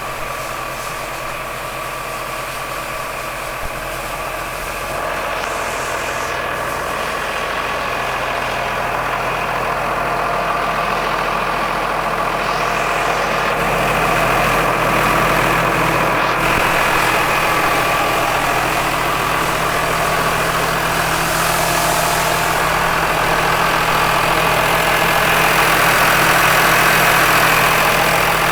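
Massey Ferguson 6490 tractor's six-cylinder diesel engine idling steadily, growing gradually louder.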